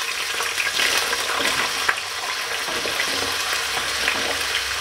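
Diced potatoes sizzling in hot oil in a kadhai as they are tipped in: a steady hiss with a scatter of small pops.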